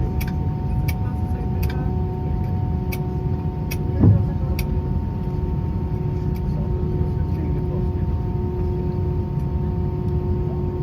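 Airbus A320 cabin noise with the aircraft under way on the ground: a steady low rumble with a steady engine hum. A series of light clicks comes in the first half, with one heavier thump about four seconds in, typical of the wheels rolling over joints or lights in the pavement.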